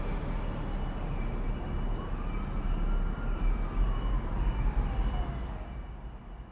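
A dense wash of noise with one slow gliding tone that rises and then falls, like a distant siren, fading out toward the end: an atmospheric sound effect in the track's intro.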